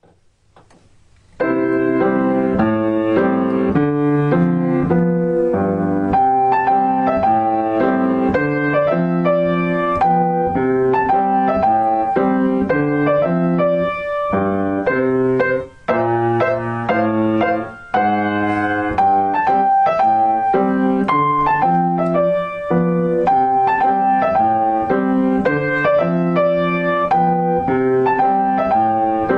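Piano music, a steady run of notes starting about a second and a half in, with two short breaks after the middle.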